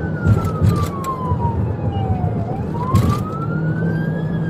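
Police siren on a slow wail, rising over about two seconds, falling, then rising again, over the steady engine and road noise of a patrol car in pursuit. A few brief knocks come near the start and about three seconds in.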